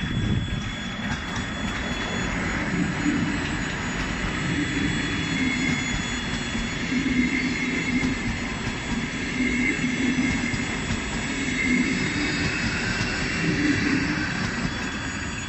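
Electric multiple-unit passenger train passing close by: a steady rushing rumble of wheels on rail with a wavering hum and higher whine over it, swelling at the start and easing off near the end.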